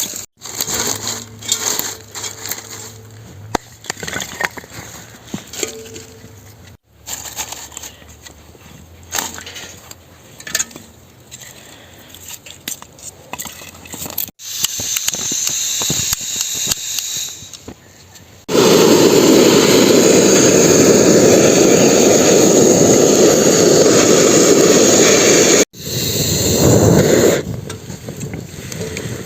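Outdoor cooking sounds across several short cuts: light clinks, crackles and scrapes, then a loud steady hiss lasting about seven seconds, with a shorter one near the end.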